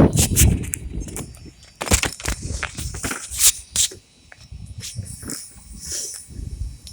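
Wind buffeting the microphone in gusts, with scattered sharp clicks and knocks from handling.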